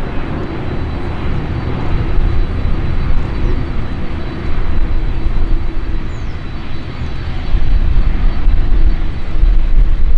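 Jet airliner's engines rumbling as it passes on the runway, growing louder over the last few seconds.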